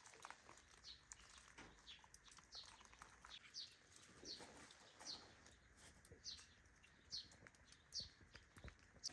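Faint bird calls: a short, high, falling chirp repeated steadily about every two-thirds of a second, with a few faint clicks.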